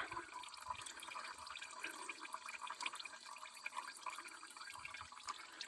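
Warmed-up engine oil draining from a sawmill's engine into a bucket: a faint, steady trickle with many small drips.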